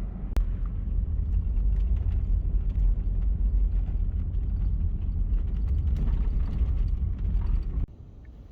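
Chevy Astro van driving, a steady low rumble of engine and road noise inside the cabin, with a sharp click shortly after the start. The rumble cuts off suddenly near the end.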